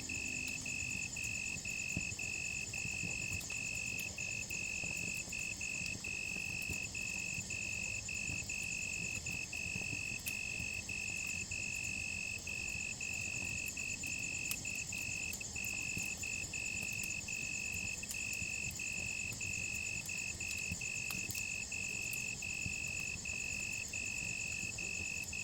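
Crickets chirping in a steady high-pitched trill with short regular gaps, a second insect pulsing fainter and higher, over the low rush and scattered pops of a crackling campfire.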